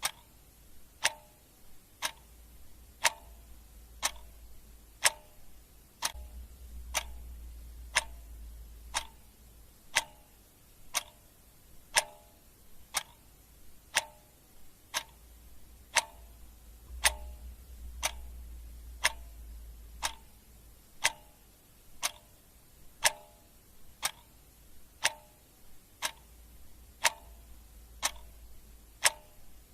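Clock ticking steadily about once a second, in an alternating tick-tock.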